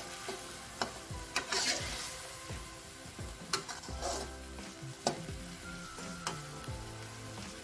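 Chicken pieces sizzling in a shallow pool of seasoned liquid in a wok, which is cooking down. A spatula stirs and scrapes through them, with a handful of sharp clicks where it strikes the pan.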